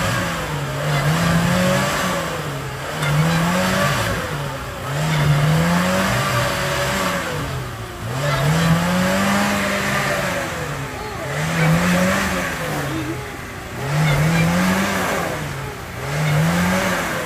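Lada Niva's engine revved again and again, about every one and a half to two seconds, each rev climbing and dropping back, as the 4x4 struggles stuck in deep mud.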